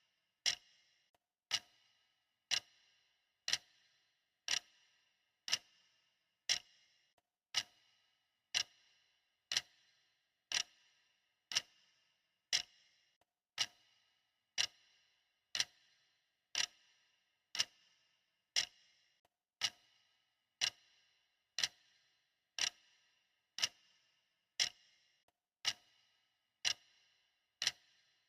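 Clock ticking steadily, one sharp tick about every second, each with a short ringing decay.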